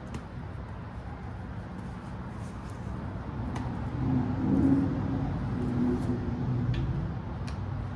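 Low engine rumble, like a motor vehicle, that swells about halfway through and then eases off, with a few faint light clicks.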